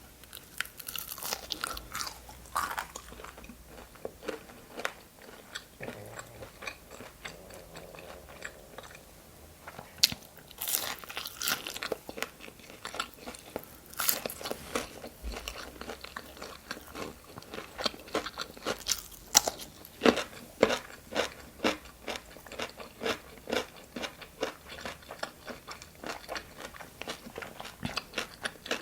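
Close-miked eating of crunchy food, chicken nuggets and pickles: a few loud crisp bites, then rapid, fairly regular crunchy chewing through the second half.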